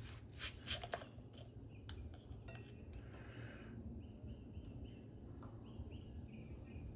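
Small plastic bottle of liquid plant food shaken, a few brief clicks, then drops of it falling into a watering can full of water: a quick run of small, high plinks, about three a second, in the second half.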